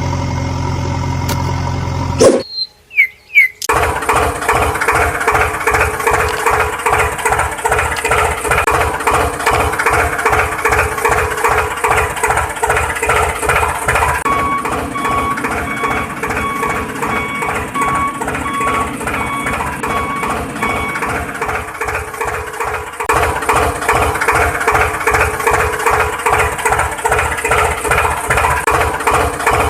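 An engine starts with a short squeal about two seconds in, then runs with a steady, fast, even chug. A run of evenly spaced beeps sounds over the engine for several seconds in the middle, and the engine gets louder a little past two-thirds of the way through.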